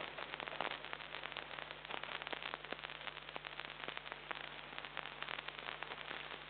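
Dense, irregular crackling and hiss with a steady low hum, picked up by a security camera's microphone.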